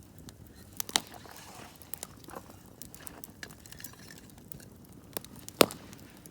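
Wood campfire crackling: scattered sharp pops and snaps over a faint hiss, the loudest pop about five and a half seconds in.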